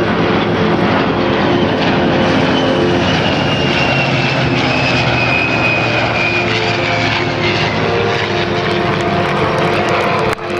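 Military aircraft flying past: a loud, steady engine roar with a high whine that slowly falls in pitch as it passes.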